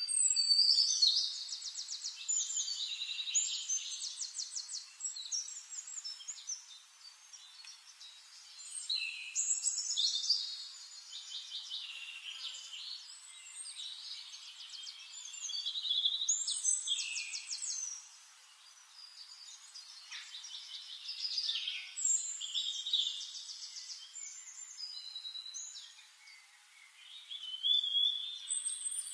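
Songbirds singing: phrases of fast, high trills and chirps that come and go every five or six seconds.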